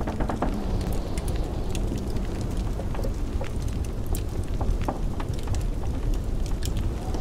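Wood fire crackling in a fireplace, with many quick sharp snaps and pops at irregular intervals over a steady low rumble of blizzard wind.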